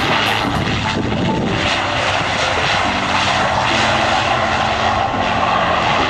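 Aircraft engines running loud and steady as a plane moves at the airport.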